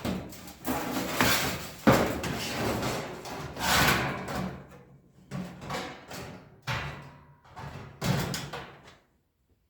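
Sheet-metal shell of a toaster oven being handled and fitted back on: a run of rattles, scrapes and clunks, with the sharpest knock about two seconds in.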